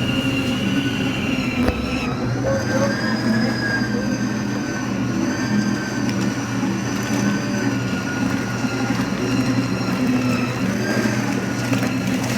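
Arno Lavette Maxx tanquinho and Electrolux top-loading washer agitating a wash together: a steady motor hum with a high whine that wavers slightly with the agitator strokes.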